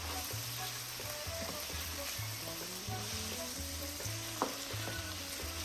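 Seasoned chicken thigh pieces sizzling in hot oil in a frying pan while being stirred, with one sharp clack of the utensil against the pan about four seconds in.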